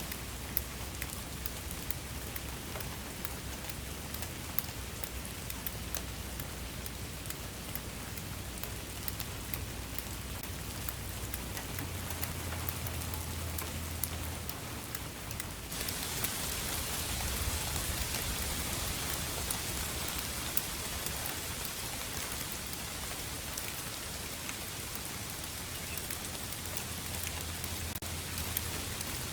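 Steady rain: an even hiss peppered with the ticks of single drops landing, over a low rumble. About halfway through the hiss suddenly grows louder and brighter, as if the rain got heavier.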